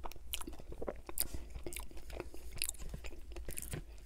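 Close-up wet chewing of soft, mushy chili and cheese, with quick mouth clicks and smacks several times a second.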